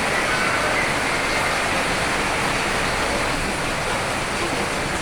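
Steady rain, a dense even hiss.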